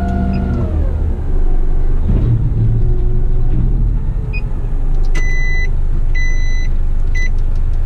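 Heavy rigid truck engine running; its revs drop about a second in and it settles to a low rumble. Near the end come three high electronic beeps, about a second apart.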